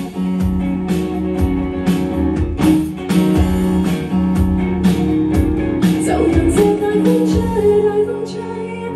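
Live band music: guitar and bass over drum hits in a passage between sung verses of a Cantopop ballad.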